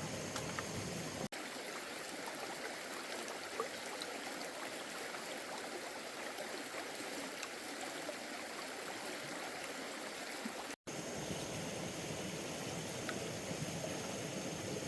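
Steady rush of flowing water, broken by a few faint clicks, with the sound cutting out abruptly twice for an instant.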